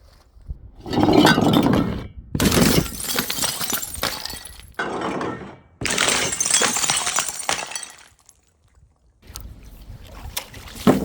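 Glass bottles shattering in about four separate smashes, each with a spray of tinkling shards, then softer scattered clinks and crackling of broken glass after a short pause near the end.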